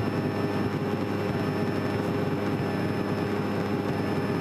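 Steady droning of a small airplane's piston engine and propeller, heard from inside the cockpit in flight.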